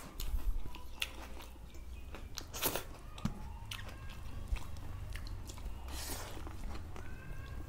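Close-up mouth sounds of people eating rice and curry by hand: chewing with wet smacks and small clicks, louder twice, about a third of the way in and again later on.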